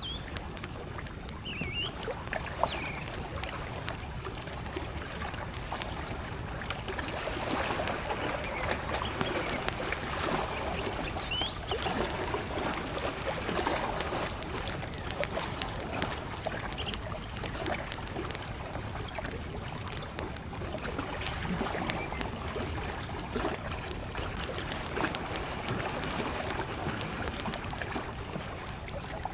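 Campfire crackling in a steady stream of small pops, over small waves lapping at a lakeshore. A few short bird chirps come through now and then.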